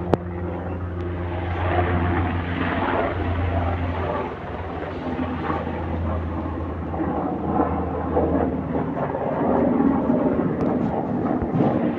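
Aircraft engines running: a steady low drone under a rushing noise that rises and falls a little, with a sharp click right at the start.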